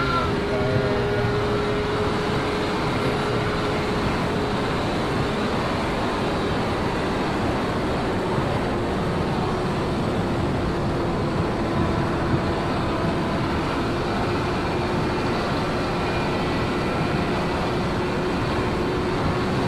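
Sport motorcycle at speed: the engine holds one steady high note, buried in heavy wind rush on the microphone.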